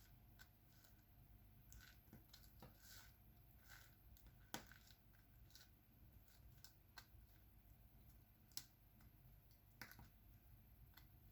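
Faint, scattered little clicks and taps of diamond painting: the drill pen picking up small resin drills and pressing them onto the sticky canvas. A few sharper ticks stand out near the middle and near the end.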